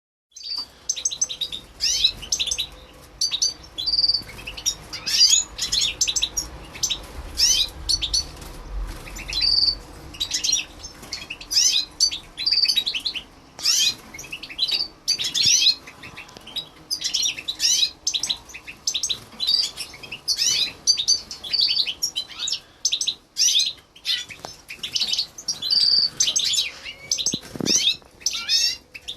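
Goldfinch × canary mule birds chirping and twittering in a cage, a quick unbroken run of short high chirps with a brief clear whistled note every few seconds.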